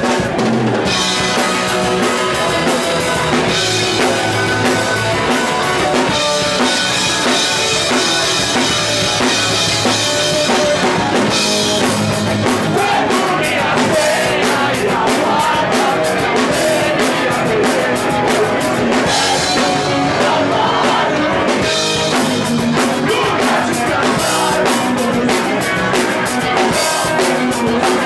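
Punk rock band playing loudly: fast drum kit, distorted electric guitars and bass, with vocals.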